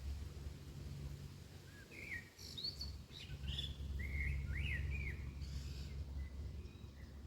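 A small songbird chirping a short run of quick, varied whistled notes, over a steady low rumble.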